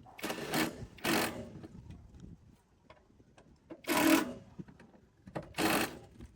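Four short rasping bursts of workshop tool work, each about half a second long: two close together near the start, then two more a second and a half apart later on.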